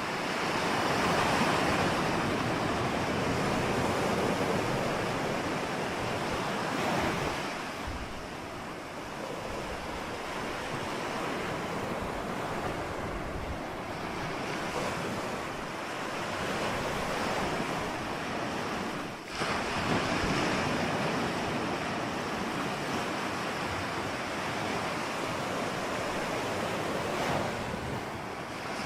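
Ocean surf: waves breaking and washing ashore in a continuous rush that swells and ebbs every several seconds.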